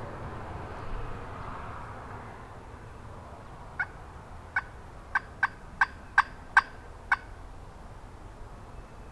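A series of eight short turkey yelps. The first two are spaced apart, then the yelps come quicker and louder, about three a second, peaking near the seventh before a softer last one.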